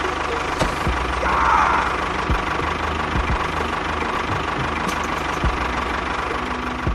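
Engine running with a steady rough rumble and scattered knocks.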